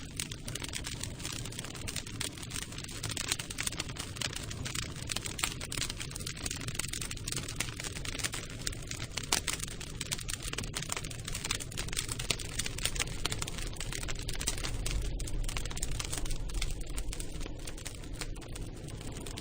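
Campfire burning, with dense, irregular crackling of burning wood over a low rumble.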